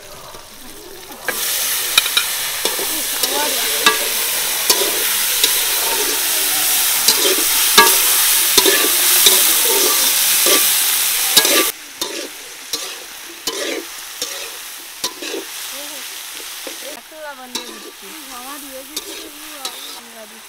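Chopped onion, tomato and green chilies sizzling in hot oil in a large metal wok, stirred with a metal spatula that clicks and scrapes against the pan. The sizzle is loud for the first half, then drops off suddenly, leaving quieter frying and spatula clicks.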